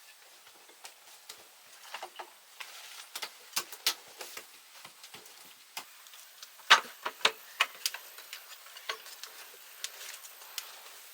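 A series of irregular sharp knocks and clicks, uneven in spacing, with the loudest few bunched about two-thirds of the way through.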